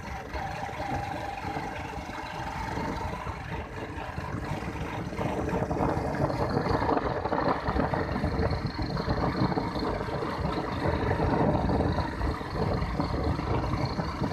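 Motorcycle running at road speed, its engine hum under the rumble of wind on the microphone, getting louder about six seconds in.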